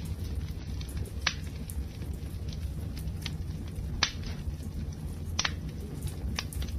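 Wood fire burning: a steady low rumble of flames with a few sharp crackles and pops of burning wood, the loudest about a second in and near four seconds.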